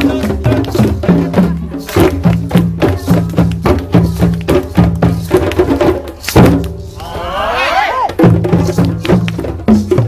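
A group of African hand drums playing an even, fast rhythm together. About six seconds in the drumming breaks off on one loud stroke, a voice calls out with a rising and falling whoop, and the drums come back in.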